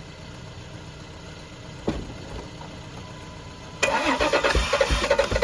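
2004 Dodge Dakota's engine being cranked over on a cold start, after a single sharp click near two seconds. The starter cuts in sharply about four seconds in as a loud run of quick regular pulses.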